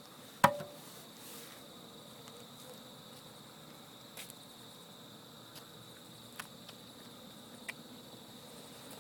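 Crickets chirping in a steady high-pitched chorus. A single sharp click about half a second in, with a few fainter clicks later.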